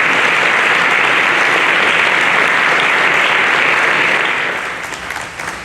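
Audience applauding steadily, fading to scattered claps after about four seconds.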